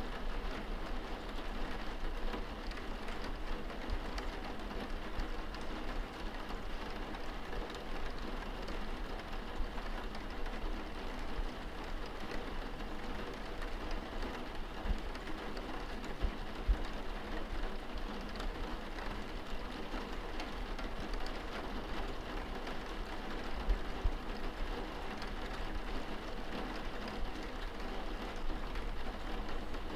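Steady rain pattering on a window pane, heard from inside the room, with a few brief low thumps along the way.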